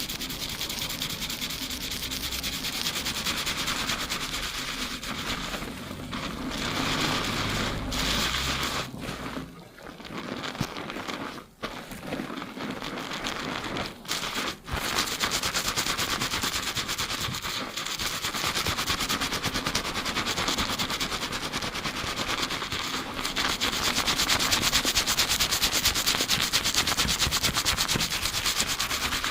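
Fingers scrubbing a lathered scalp at high speed, recorded close on binaural microphones: a rapid, even run of rubbing strokes, broken by a few short pauses a little before halfway.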